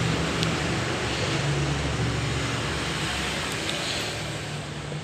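Steady rushing background noise with a low hum underneath, easing slightly toward the end, and a faint click about half a second in.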